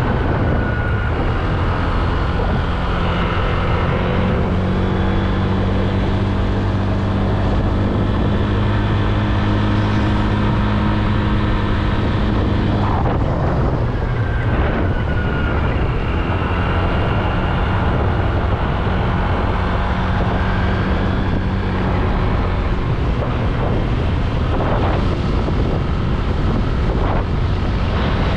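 Honda Click 125i scooter's engine running at a steady cruising speed, with wind buffeting the microphone. The engine note briefly drops away about halfway through, then returns.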